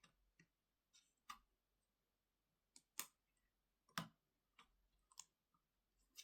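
Faint, irregular clicks and taps of small hand tools and parts being handled on a laptop during disassembly, about a dozen in all, with two sharper knocks around the middle.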